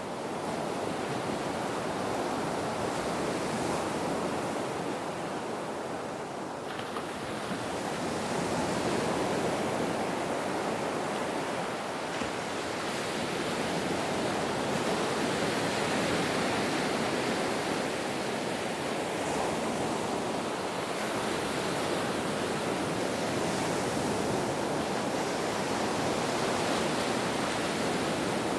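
Ocean waves washing in as a continuous rush of surf, swelling and easing gently.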